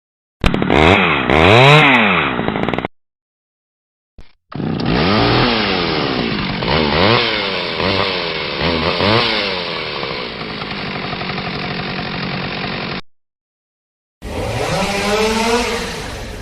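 A chainsaw engine revved up and down again and again, its pitch rising and falling several times, in three separate takes with silent gaps between them.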